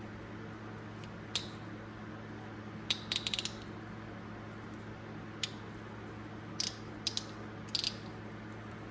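Old Snap-on hand ratchet, freshly lubricated, clicking as its pawl mechanism is worked by hand: scattered single clicks and one quick run of several clicks about three seconds in. A steady low hum runs underneath.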